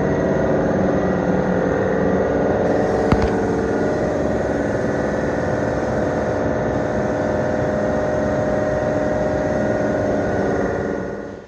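A motor running steadily with an even, machine-like hum. There is a single sharp click about three seconds in, and the sound cuts off abruptly at the end.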